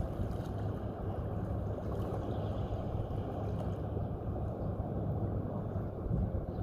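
Steady low rumble of wind buffeting the microphone at the shore, with no distinct events.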